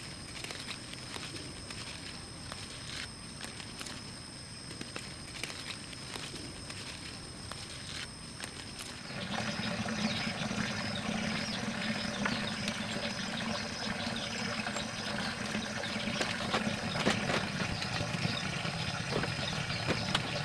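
Light scattered clicks and steps, then about nine seconds in a small engine starts and runs steadily, low and rough.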